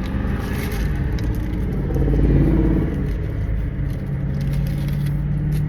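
Car engine and road rumble heard from inside the cabin, with a steady low hum that swells briefly about two seconds in as the car pulls forward.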